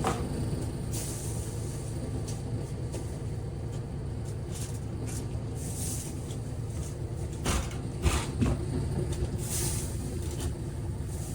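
Thin plastic masking sheet rustling and crinkling as it is handled, with a few sharp crackles about seven to eight seconds in, over a steady low hum.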